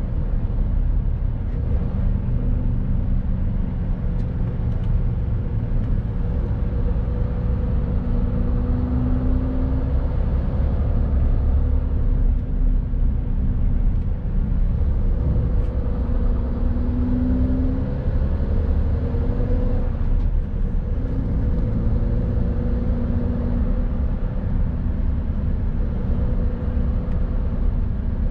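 Mercedes-Benz Actros truck's diesel engine running under way, over a steady low road rumble. The engine note rises and eases slightly a few times as the revs change.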